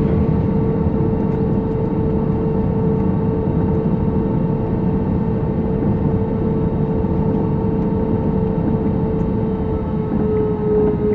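Cabin noise inside an Airbus A320-214 with its CFM56 engines running at power: a loud, steady rush with a steady droning hum.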